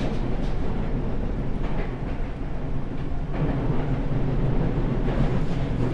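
Seibu 6000 series electric commuter train with a Mitsubishi SiC VVVF inverter, heard from inside the car while running: a steady rolling rumble and motor hum, with a few faint rail clicks. The sound swells a little past halfway.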